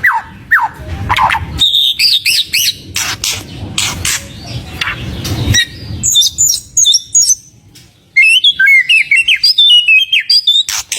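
White-rumped shama (murai batu) singing: varied whistled phrases mixed with sharp chirps and clicks, a short lull about seven seconds in, then a fast run of high whistled notes.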